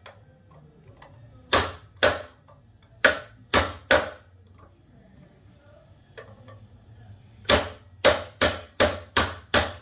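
Hammer striking a pin punch to drive a 3/16-inch roll pin out of an anti-blowup tool: sharp metallic strikes, a few scattered ones at first, then a quicker run of about two to three a second near the end.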